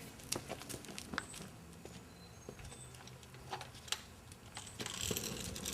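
Faint footsteps and scattered light knocks, with a rustling hiss building near the end.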